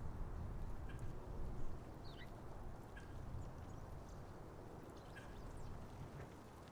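Small birds at a feeder giving short, faint chirps and ticks, roughly one a second, over a steady low rumble.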